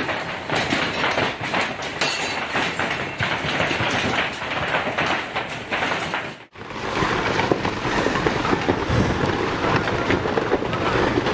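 Heavy hailstorm: a dense, loud rattle of hailstones pounding. It breaks off abruptly about six and a half seconds in and resumes at once.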